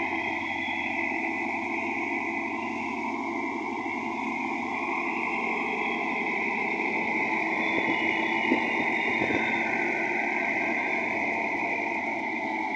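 Tractor engine running steadily, driving a rotavator.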